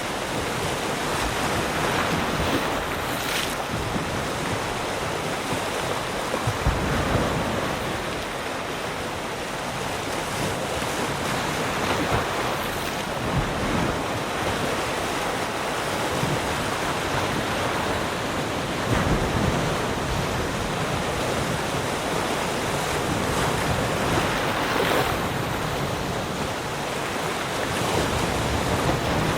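Ocean waves breaking and washing on a shore, a steady surf with swells rising and falling every few seconds.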